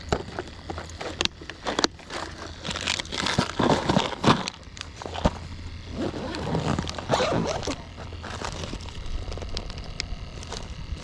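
Close handling noise: rustling, crinkling and a string of sharp clicks and knocks as gear is handled, busiest in the middle stretch.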